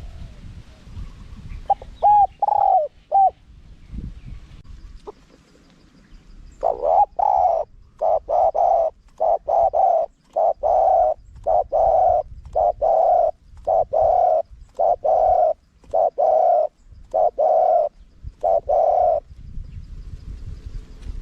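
Spotted dove cooing: a few short notes about two seconds in, then a long run of evenly spaced coos, one to two a second, for about twelve seconds.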